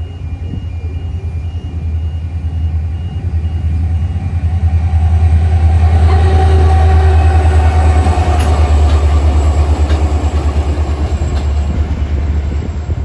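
Train passing close by: a loud, low, throbbing rumble that grows to a peak about halfway through and then eases off.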